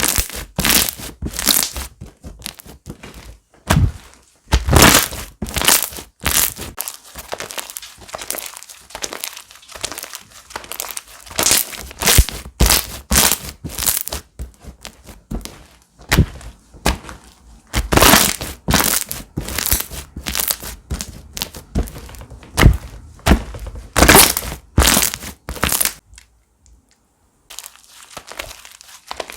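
Slime squeezed, pressed and folded by hand, giving loud irregular clusters of sharp crackles and pops. The clusters pause briefly near the end.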